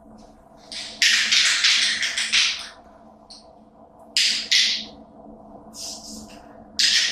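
Aerosol spray paint can hissing in short bursts as a light first coat of paint goes on: a broken burst lasting close to two seconds about a second in, a shorter one around four seconds, and another starting near the end. A faint steady hum runs underneath.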